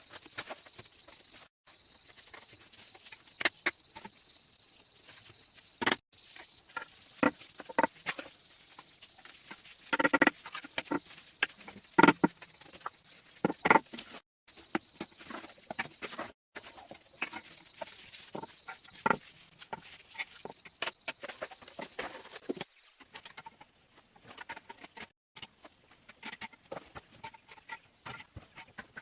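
Irregular sharp taps, clicks and knocks over light rustling, broken up by several abrupt cuts; the loudest knocks come around the middle.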